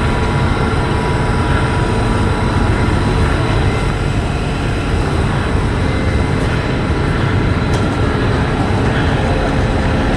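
Passenger train running: a steady, loud rumble with a few steady whining tones above it.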